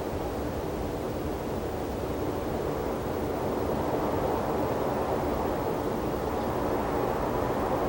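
Soft wind rushing across open desert terrain: an even, low rush that grows slightly louder in the second half.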